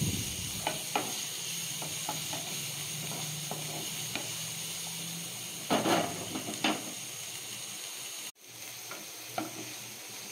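Diced onion and green capsicum sizzling in hot oil in a nonstick frying pan while a wooden spatula stirs them, scraping and tapping against the pan. The stirring is loudest about six seconds in, and the sound cuts out for a moment a little after eight seconds.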